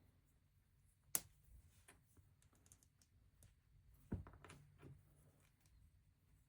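Plastic LEGO pieces clicking and tapping as they are handled and pressed together, with one sharp click about a second in and a duller knock around four seconds.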